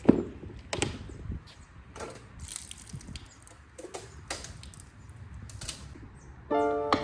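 Irregular clinks and knocks of hand tools and metal parts being handled during work on a 5.3 V8 engine, the sharpest knock right at the start. Piano music comes in near the end.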